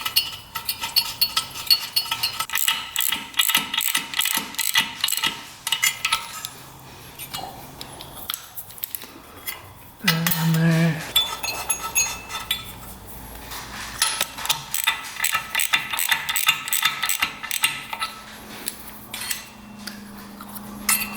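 Hand ratchet clicking in short runs, with metal tools clinking and rattling, while new spark plugs are being fitted into a two-stroke motorcycle engine. A brief low hum sounds about halfway through.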